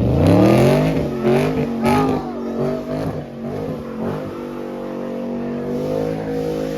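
Muscle car engine revving: the pitch climbs sharply, wavers through a few blips of the throttle, then holds at a steady raised speed for the last few seconds.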